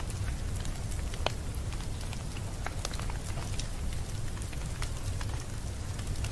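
Wood fire crackling in a fireplace: scattered small pops and snaps over a steady low rumble, with one sharper pop about a second in.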